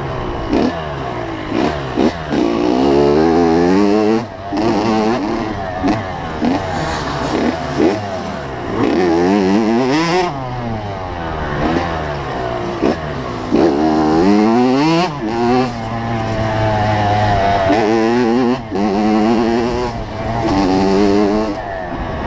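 85cc two-stroke motocross bike engine being ridden hard, revving up and dropping back over and over, its pitch climbing and falling with each throttle and gear change.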